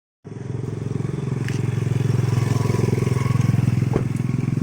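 Quad bike engine running and picking up, growing louder over the first second and a half after cutting in abruptly, with a couple of light clicks.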